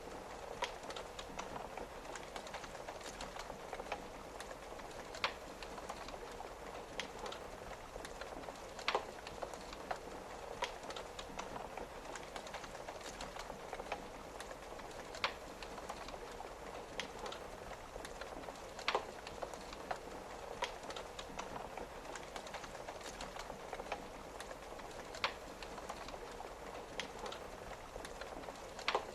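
Wood fire crackling in a fireplace, with a sharp pop every few seconds, over the steady patter of rain on a window.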